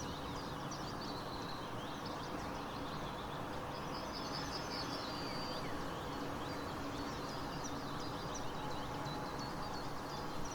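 Birdsong ambience: many short chirps from several small birds over a steady background hiss, with a brief trill about four to five seconds in.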